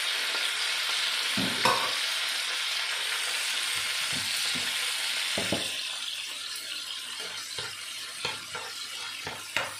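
Sliced hot dogs, onion and lettuce sizzling in oil in a frying pan while a wooden spatula stirs them, with a few short scraping knocks against the pan. The sizzle is steady at first and dies down after about six seconds.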